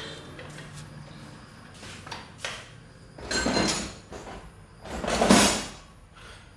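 Metal engine parts and hand tools being handled during motorcycle engine reassembly: small clicks and knocks, with two louder scraping, sliding sounds about three and five seconds in, the second the louder.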